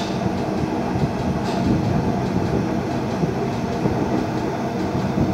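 Train rolling slowly on a siding, a steady low running rumble and hum with a couple of faint clicks.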